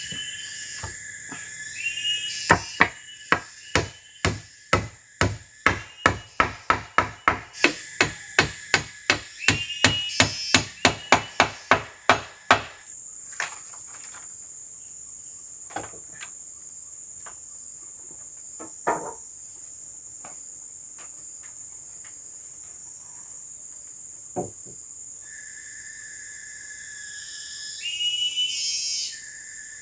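Rapid, regular blows on wood, about two to three a second, which stop about thirteen seconds in. Afterwards forest insects keep up a steady high drone, with a few scattered knocks and short chirps.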